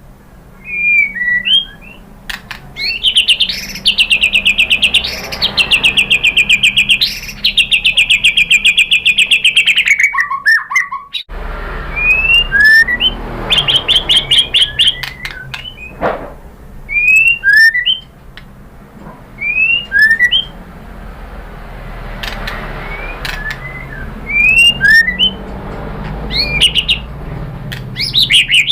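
White-rumped shama (murai batu) singing: long, very rapid trills broken by sharp, short rising whistled notes repeated again and again.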